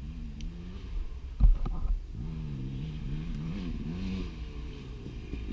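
KTM 350 XC-F four-stroke dirt bike engine, its revs rising and falling repeatedly as the throttle is worked, with a heavy thump about a second and a half in.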